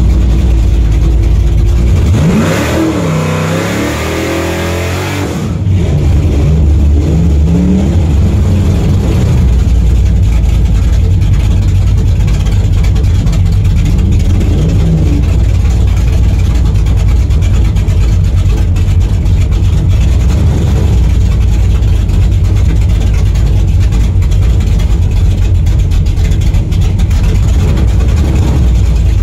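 Car engine running with a loud, deep, steady rumble. About two seconds in, for some three seconds, the rumble drops back while an engine revs up and down in sweeping pitch.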